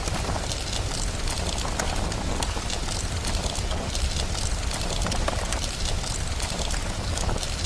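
Fireplace crackling, with frequent sharp pops scattered over a steady hiss of rain and a continuous low rumble.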